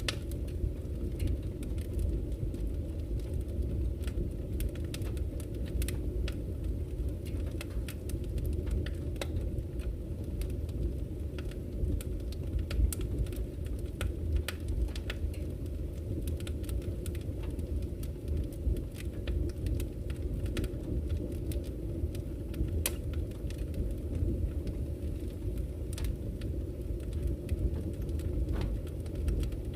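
Campfire crackling, with irregular sharp pops and snaps over the steady low rush of a flowing river.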